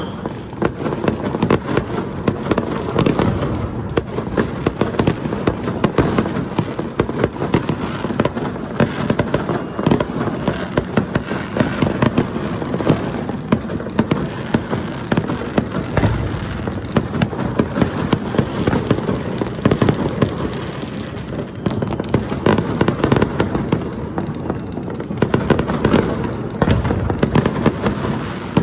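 Dense, continuous crackling and banging of many firecrackers and fireworks going off at once, with no gaps between the bangs.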